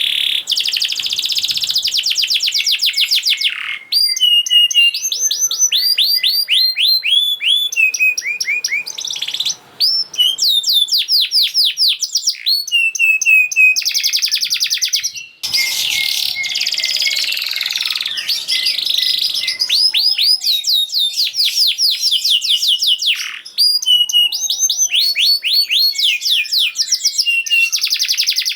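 Domestic canary singing a long, fast song of rapid trills, many quick notes repeated in tight runs, with a few brief pauses between phrases.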